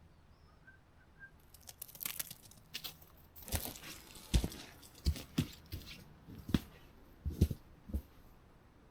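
Footsteps crunching over the forest floor, an irregular run of sharp crackling steps that grows louder from about three seconds in.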